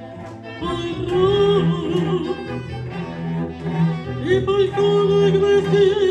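Live chamber music: bowed strings, led by a cello, playing long sustained notes with vibrato. It comes in louder about a second in, after a quieter opening moment.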